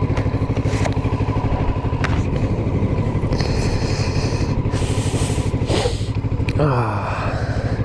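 Motorcycle engine running steadily while riding, with the revs dropping about six and a half seconds in.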